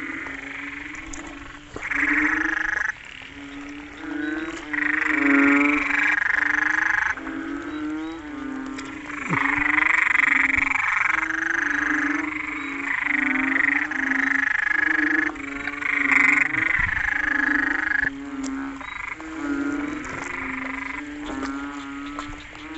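Chorus of calling frogs: banded bullfrogs giving low calls over and over, overlapping one another, with higher, fast-pulsed calls of other frogs coming and going in stretches of a second or two. It is a breeding chorus after rain.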